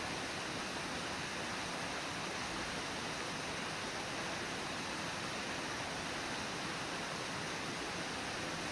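Brooks Falls on the Brooks River rushing steadily: an even, unbroken wash of falling water.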